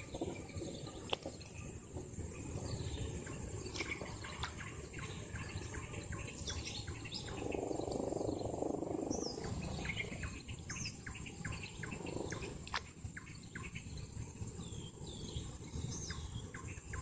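Birds chirping and calling repeatedly in short, quick notes. A louder rushing noise rises for about two seconds around the middle.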